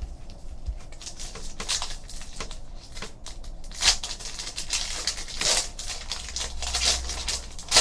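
Trading cards being handled at a table: a run of light clicks and rustles, with several louder swishes as cards are slid and flipped.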